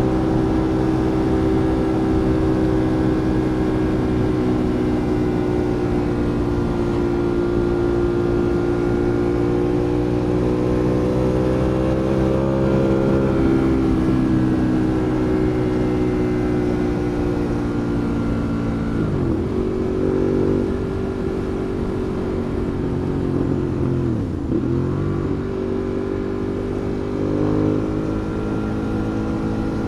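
Ducati Monster 821's 821 cc L-twin engine running at steady riding revs. Its pitch dips and comes back up twice, about two-thirds of the way through.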